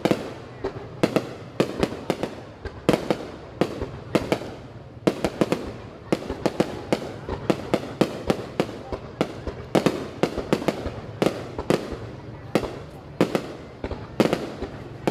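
Fireworks display: shells bursting in a continuous barrage of sharp bangs, several a second, often in quick clusters.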